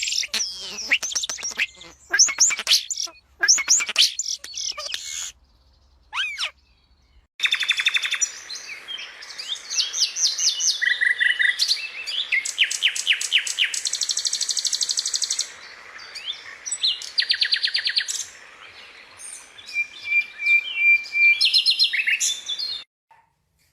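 Songbirds chirping and singing: quick high chirps for about five seconds, a brief pause, then fast trills and rapid runs of repeated high notes.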